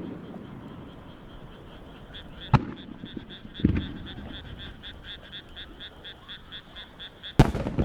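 Fireworks shells bursting: a sharp crack about two and a half seconds in, a duller boom a second later, and a loud bang near the end. Between them a chorus of frogs calls in a fast, even pulsing chirr.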